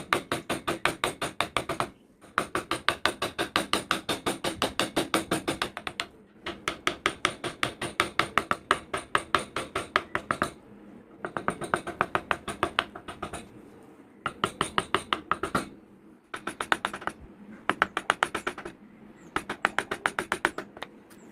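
Rapid, even taps of a mallet on a wood-carving chisel cutting into wood, in runs of a few seconds broken by short pauses.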